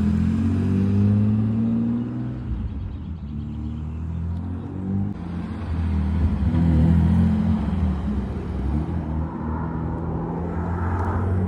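BMW E34 535i's straight-six running with its muffler cut out, driving away: a loud exhaust that fades after about two seconds, then grows louder again around six to seven seconds in before easing off.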